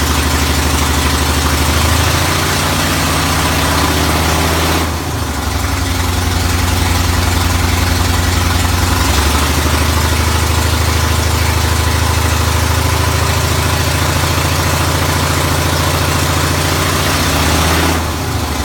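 1985 Ford Bronco's 351 Windsor V8 idling roughly, with a brief hiccup in its running about five seconds in and again near the end, and the idle speed shifting a couple of times.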